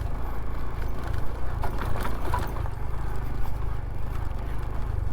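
Honda CT125's single-cylinder engine running steadily while the bike rides a rough, rutted dirt road, with a few brief knocks and rattles about two seconds in.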